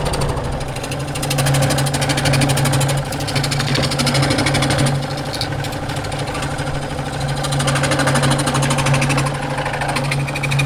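A machine running steadily, with a low hum and a fast, even chugging rhythm that swells and eases in level.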